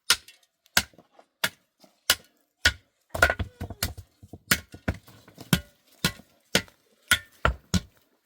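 A hand tool striking hard again and again in a steady chopping rhythm, about three strikes every two seconds, coming a little quicker near the end.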